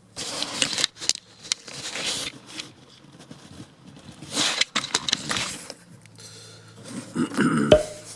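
Close rustling, scraping and clicking of things being handled right at the microphone, with a sharp knock near the end.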